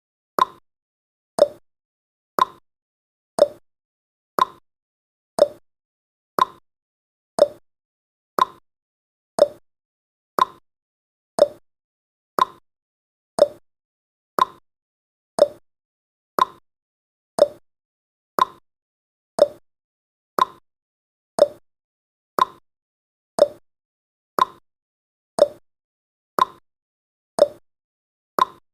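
Clock-tick sound effect of a countdown timer: one short, sharp tick every second, steady and evenly spaced.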